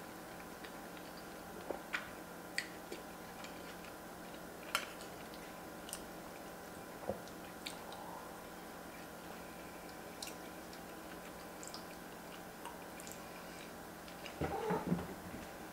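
Close-miked chewing of tuna mac and cheese, with scattered sharp mouth clicks every second or two. Near the end a metal spoon scrapes and scoops in the ceramic baking dish, the loudest sound.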